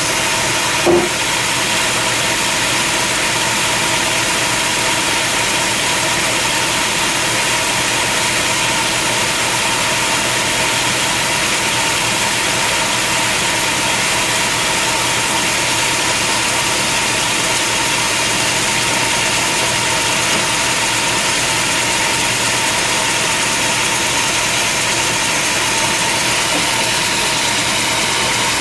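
Sawmill machinery running steadily, a constant engine-like hum with a steady tone. There is a short knock about a second in.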